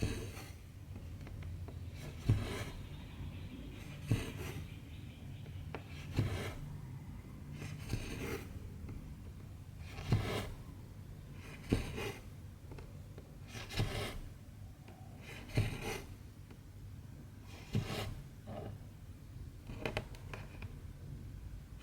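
Hand cross-stitching: a needle punches through 14-count aida fabric and cotton embroidery thread rasps through after it. Each stitch is a sharp tick and a short pull, repeated about once every two seconds.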